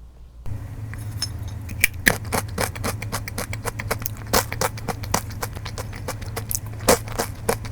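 Honey mustard cashews making a dense run of crisp clicks and crackles close to the microphone, starting about half a second in, over a low steady hum.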